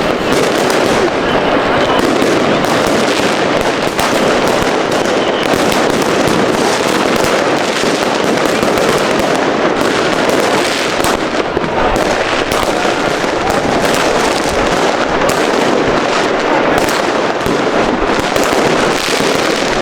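Fireworks and firecrackers going off in a dense, unbroken barrage, many bangs and crackles overlapping with no pause.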